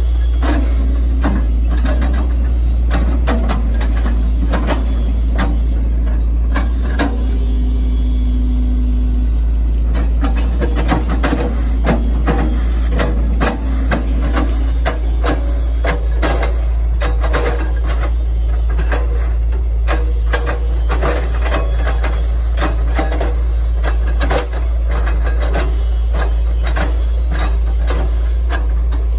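Hitachi ZX110 MF hydraulic excavator working, its diesel engine giving a steady low rumble under many irregular knocks and clatters from the machine and its bucket.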